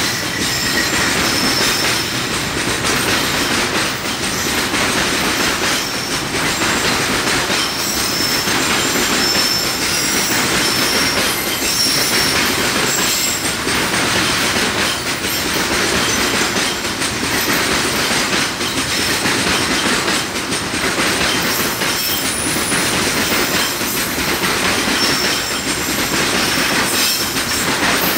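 Container freight train's loaded flat wagons rolling past at steady speed: a continuous wheel-on-rail rumble with regular clacks from the rail joints and faint, brief high wheel squeals.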